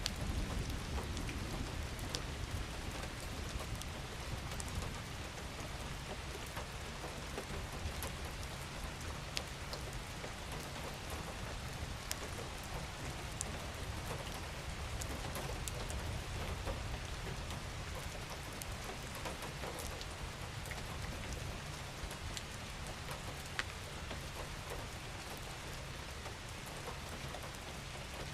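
Steady rain: an even hiss with scattered sharp ticks of individual drops striking a surface, over a low rumble that is strongest about a second in.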